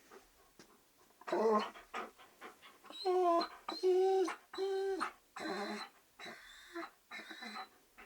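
A dog giving a series of about six short, pitched cries, each about half a second long, with brief gaps between them.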